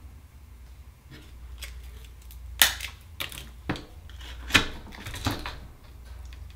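Sharp clicks and knocks of hard shell and metal tools, about seven in a few seconds, two of them louder: an oyster being pried and cracked open.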